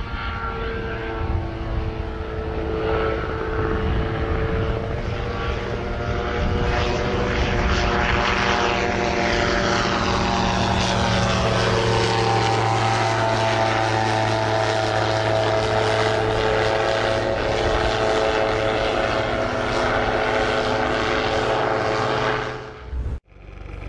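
Propeller aircraft engines running loudly in a steady drone of several tones. About eight seconds in, some of the tones slide downward, and the sound cuts off abruptly near the end.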